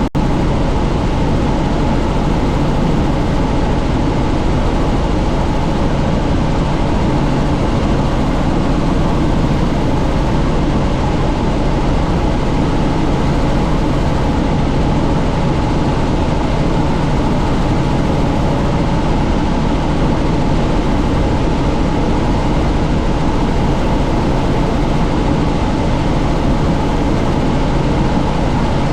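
Helicopter in steady cruise flight, its rotor and engine running as a loud continuous drone with an even pitch, heard from inside a cabin flying with the doors off.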